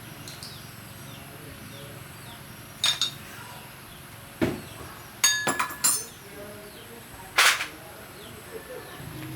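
A few sharp metallic clinks and knocks, with a quick cluster of ringing clinks a little past the middle, like metal parts or tools being set down and handled. Faint bird chirps sound in the background.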